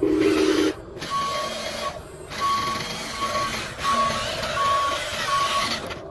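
Reversing alarm of an RC model heavy-duty truck beeping evenly about seven times over a steady hiss, opening with a short lower tone.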